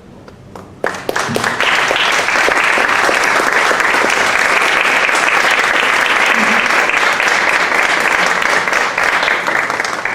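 Audience applauding: a dense burst of clapping that swells in about a second after a piece ends, holds steady, and starts to die away near the end.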